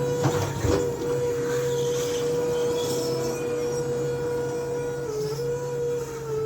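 Electric motor whine of a Crown RM6000 double-reach truck, holding a steady pitch after spinning up, with a slight dip about five seconds in and a drop near the end. A couple of clicks sound near the start over a low steady hum.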